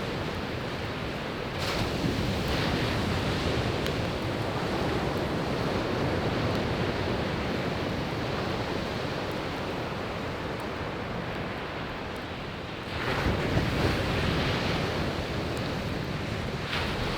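Sea waves breaking on a beach, a steady wash of surf that swells louder twice, about a second and a half in and again near the end. A few faint crackles from a burning wood campfire.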